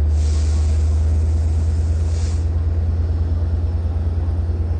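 Diesel engine of an LIRR DM30AC locomotive running steadily with a deep hum. There are two short hisses of air, one near the start and one about two seconds in.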